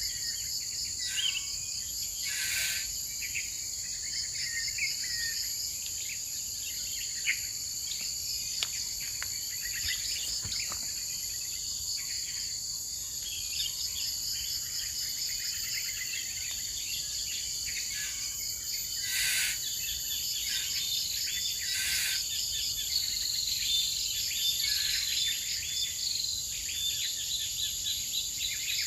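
Forest ambience: a steady, high-pitched chorus of insects buzzing in several layers, with many birds chirping and calling over it. A few brief noise bursts stand out, about two and a half seconds in and twice near the twenty-second mark.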